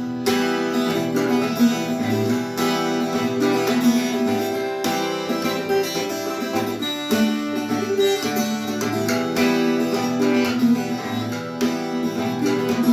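Acoustic guitar intro: chords strummed in a steady rhythm.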